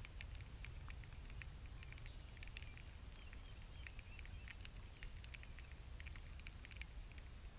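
Small birds chirping in quick, short notes, over a low steady rumble.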